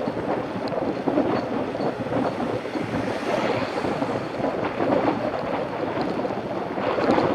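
Wind buffeting a Shimano CM-1000 action camera's microphone while mountain biking: a steady, rough rushing noise that swells and dips.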